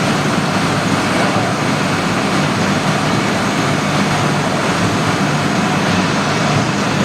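Steady, loud noise of heavy machinery running, even throughout with no distinct knocks or changes.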